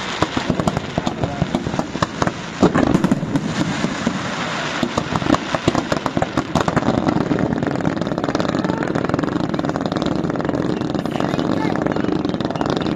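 Fireworks crackling and popping in quick succession over crowd chatter, with a louder bang about three seconds in. The crackling thins out after about seven seconds, leaving the crowd's voices and a steady background din.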